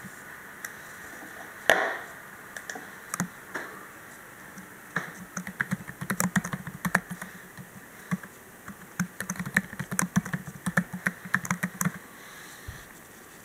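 Irregular crackling static from a Dell Precision M3800 laptop: clusters of sharp clicks and buzzy bursts that come and go with the pattern of SSD access, busiest in the middle and dying away near the end. The owner takes it for an electrical noise tied to drive access rather than any moving part.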